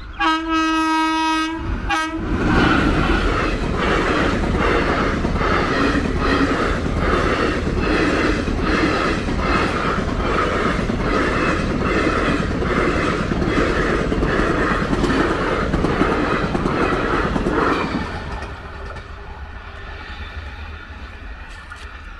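Electric-locomotive-hauled express passenger train passing close at speed. It opens with one long, steady horn blast lasting about two seconds. Then comes the loud rush of the coaches with a regular clickety-clack of wheels over the rail joints, which drops off suddenly near the end and fades as the train recedes.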